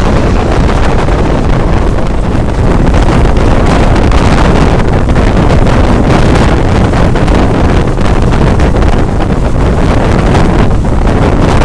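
Loud, steady wind buffeting the microphone over the running rumble of a moving passenger train.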